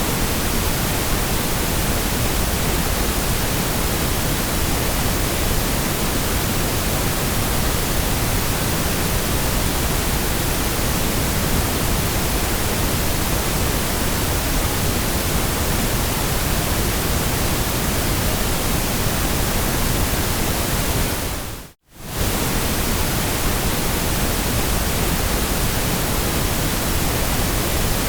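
Steady white noise, an even hiss across all pitches. About 22 seconds in it briefly fades out to silence and straight back in.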